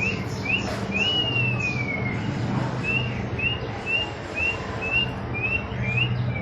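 A string of short, high, rising chirping whistles, about two a second, with one longer falling whistle about a second in; a faint steady low hum sits underneath.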